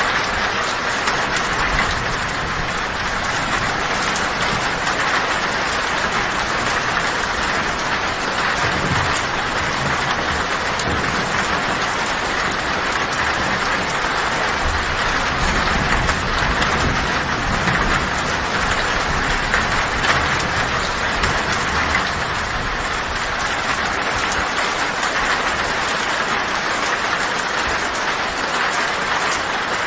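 Heavy rain drumming steadily on a tin roof, a dense, even patter without a break.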